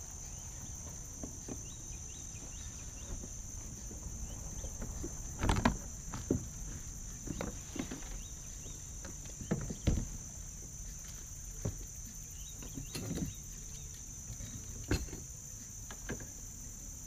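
Steady high-pitched drone of insects, with scattered knocks and thumps, the loudest about five and a half and ten seconds in.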